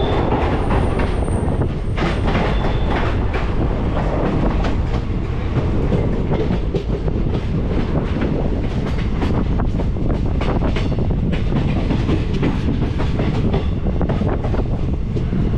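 Indian Railways express passenger coach running at speed: a steady rumble, with the wheels clicking rapidly over rail joints and pointwork, heard at the open coach door.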